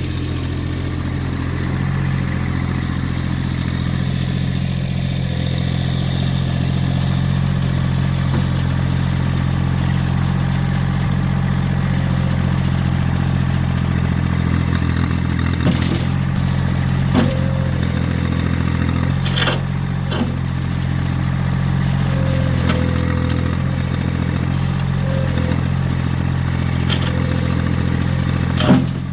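Massey Ferguson GC1710 sub-compact tractor's diesel engine running steadily under load, with a few short clanks and scrapes from the second half on.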